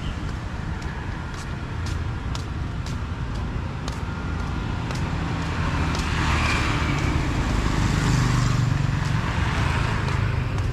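A motor vehicle passes close by on a street: engine and tyre noise swell to a peak about two-thirds of the way through, over steady traffic rumble. Light footsteps tap at about two a second.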